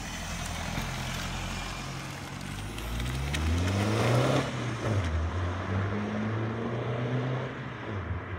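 BMW 320d's N47 four-cylinder diesel running with the DPF removed and a downpipe fitted, revving as the car pulls away. Its pitch climbs to a peak about four seconds in, drops, then climbs again more gently before easing off near the end: a fat diesel exhaust note.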